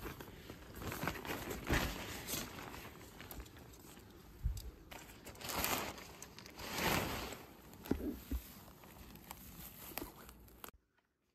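Rustling and crinkling of camping gear being handled, in irregular swells with a few small knocks, cutting off abruptly near the end.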